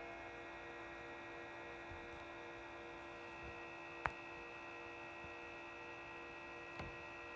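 Cooling fans of a Behringer EPQ304 four-channel power amplifier running, a steady hum made of several constant tones, recorded close to the microphone; the owner finds this fan noise too loud for quiet settings. A sharp click about four seconds in and a fainter one near the end.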